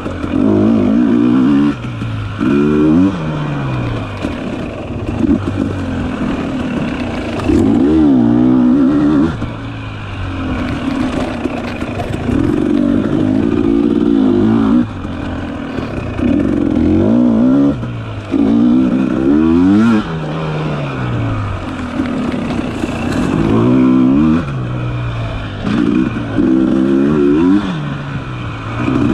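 Dirt bike engine revving up and dropping back again and again, in short bursts of throttle a few seconds apart as the rider accelerates and rolls off.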